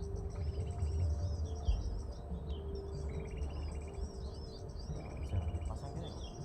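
Small birds calling: quick high rising-and-falling chirps alternate with short buzzy trills in a cycle repeating every second or two, over a low rumble.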